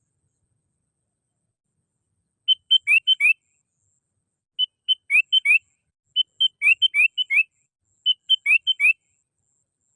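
Sooty-headed bulbul calling: four short phrases of quick, bubbly whistled notes, each note rising, starting about two and a half seconds in with brief gaps between phrases.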